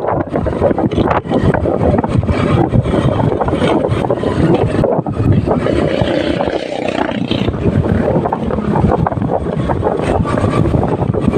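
Motorcycle running while riding, with wind buffeting the microphone in a steady, loud rush.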